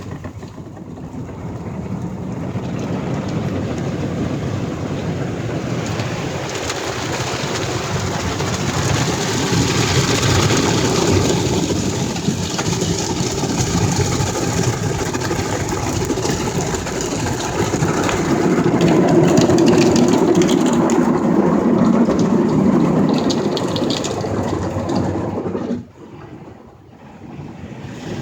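Ryko SoftGloss XS automatic car wash working over a car in its wash cycle: water spray drumming on the body over the machine's running, loud and steady. It cuts out suddenly near the end and starts building again.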